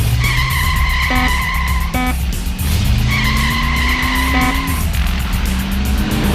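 Cartoon vehicle sound effects over background music with a steady beat: a low engine-like hum that rises slowly, and two long high tones of about a second and a half each, with short blips between them.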